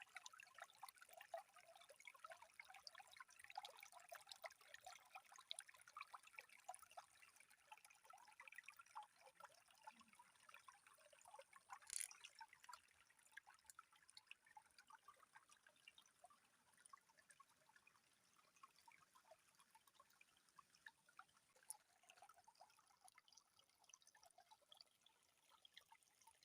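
Faint water trickling and dripping: a scatter of small droplet sounds, busier in the first several seconds and thinning later. A single sharper click about twelve seconds in.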